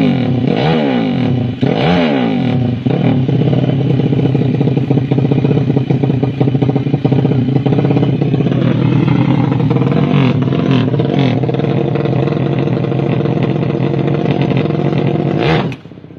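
Motorcycle engine running at high revs, its pitch swinging up and down a few times at first, then holding steady with a dip and recovery about halfway through. The sound drops away sharply near the end.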